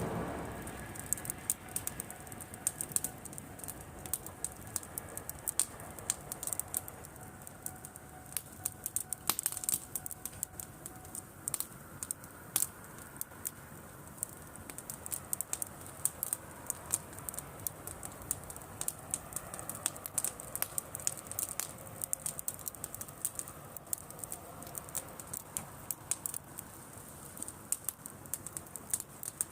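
Driftwood bonfire crackling, with irregular sharp pops and snaps several times a second over a faint hiss of burning.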